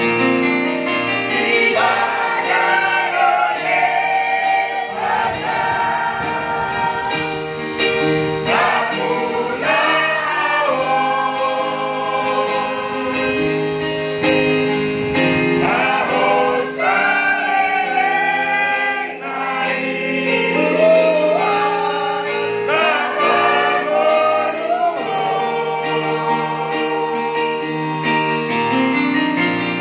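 Church choir singing a hymn in several voice parts, with long held chords.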